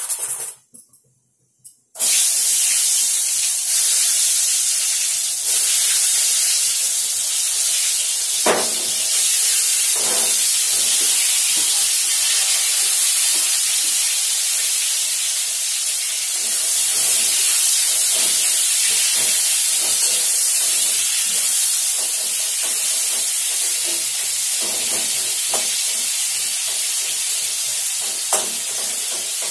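Eggplant slices frying in hot oil in a wok, a loud, steady sizzle that starts suddenly about two seconds in. A few short knocks are heard during the frying.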